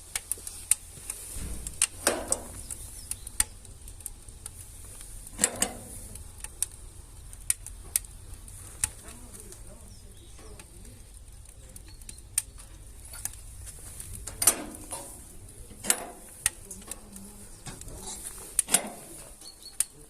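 Wood fire crackling in a stove firebox: irregular sharp pops and snaps over a low steady hum, with a few longer, duller sounds scattered through.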